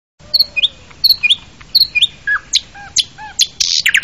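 Birds chirping: a short high chirped phrase repeated three times, then several down-slurred whistled notes, and a fast trill of rapid notes starting near the end.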